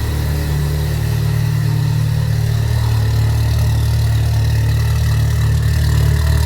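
Subaru EJ20X twin-scroll turbocharged flat-four engine, with equal-length headers, idling steadily in a GC8 Impreza just after the freshly installed engine has been started.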